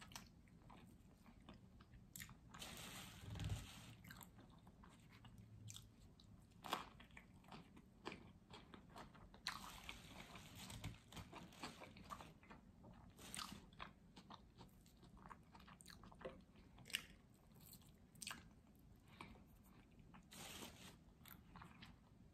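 Faint, close-up chewing of a bite of cheese-topped potato wedge: many small wet mouth clicks, with louder stretches about three seconds in and about ten seconds in.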